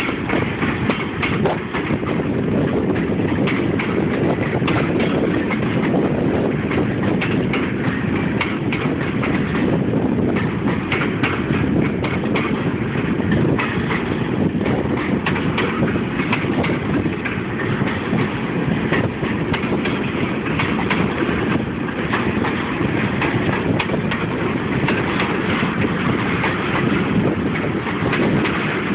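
Freight train cars rolling past: a steady rumble of steel wheels on rail, with frequent clicks and clanks throughout.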